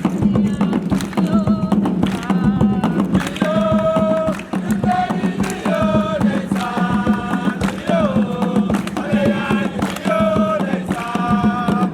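Voices singing a chant in held notes, with a few sliding ones, over dense, quick percussive strikes and a steady low drone.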